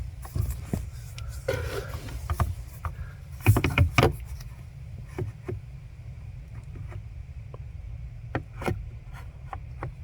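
Scattered plastic clicks, knocks and rustling as a replacement A/C servo motor is worked into place by hand, with a cluster of louder knocks about four seconds in, over a steady low hum.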